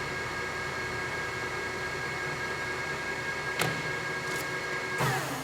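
Sunmaster ML 1740 gap-bed lathe running steadily, its gearing giving a constant whine of several high tones over a machine hum. A single click about two thirds of the way through and a louder clunk near the end.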